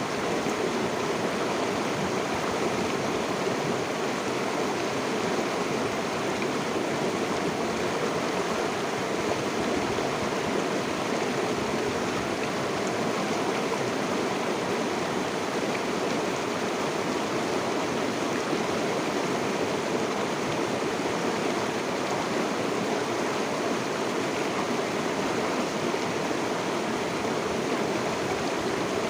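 River water flowing and rushing steadily over stones, an even unbroken babble with no other sounds.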